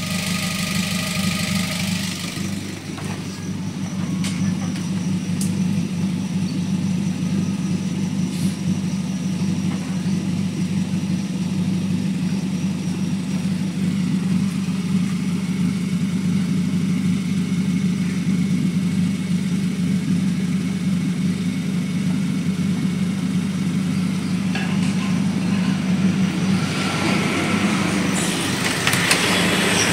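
Daihatsu Gran Max 1.5-litre engine idling steadily while it warms up, coolant still below half on the gauge and the radiator fan not yet switched on. Brief rustling near the start and near the end.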